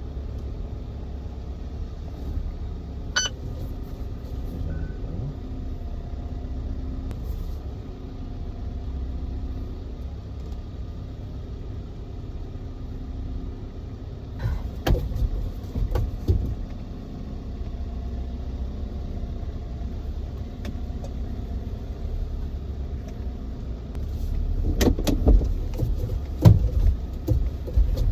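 Vehicle engine running at low speed, heard from inside the cabin as a steady low rumble. A few knocks and clunks come about three seconds in, again around the middle, and louder near the end.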